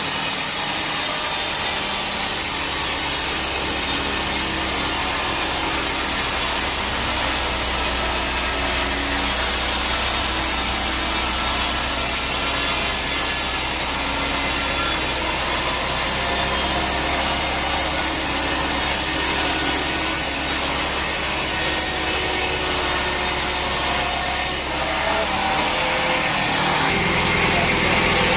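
Sawmill band saw blade cutting through a teak log, a steady dense rasp of the blade in the wood. About 25 seconds in, the cutting sound drops away and the running of the machinery carries on.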